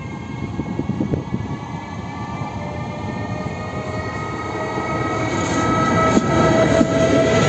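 ZSSK class 383 (Siemens Vectron) electric locomotive hauling passenger coaches past, getting steadily louder as it comes closer. A steady whine sits over the rumble of the wheels on the rails, and a few sharp wheel clacks come near the end.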